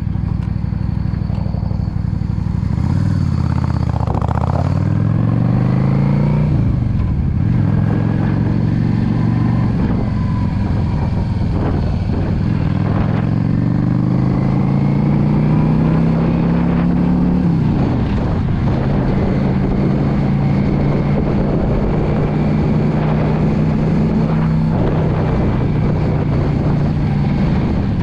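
Yamaha V Star 650's V-twin engine accelerating under way: its pitch climbs, drops at a gear change about six seconds in, climbs again for about ten seconds, drops, then holds steady at cruise. Wind noise rushes over the microphone throughout.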